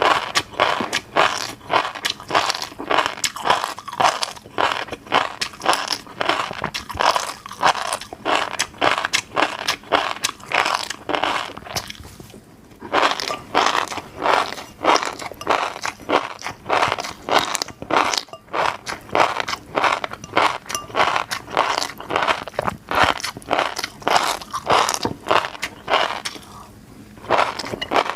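Close-miked eating of fish roe: a rapid, dense run of clicks and pops as the roe beads burst in the mouth while chewing, with short pauses about twelve seconds in and near the end.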